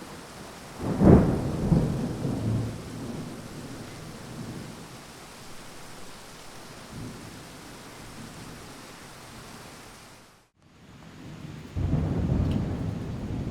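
Thunderstorm: steady rain with a loud thunderclap about a second in that rumbles away over a couple of seconds. The sound cuts out briefly near the end, then another thunder rumble begins.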